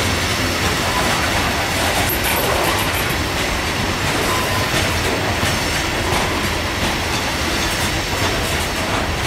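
Loaded coal hopper cars of a freight train rolling past: a steady rumble of steel wheels on rail, with clicks as the wheels cross rail joints.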